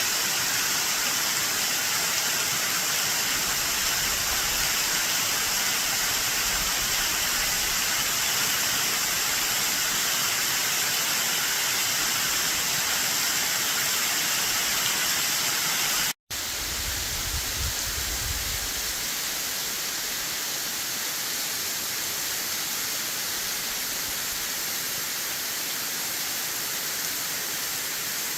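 Mary Jane Falls pouring off a cliff at high spring-runoff flow: a steady, full rush of falling water. About 16 seconds in the sound cuts out for an instant, then resumes slightly softer.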